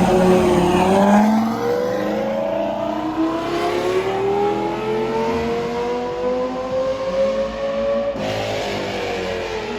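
High-performance car engine accelerating hard, its exhaust note rising steadily in pitch for several seconds. About eight seconds in, the sound changes abruptly and the pitch then falls away.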